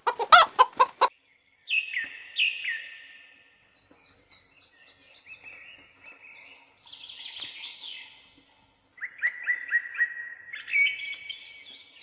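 A hen clucks a few times in quick succession, then chicks peep: repeated short, high cheeps that fall in pitch. A quicker run of cheeps near the end climbs higher.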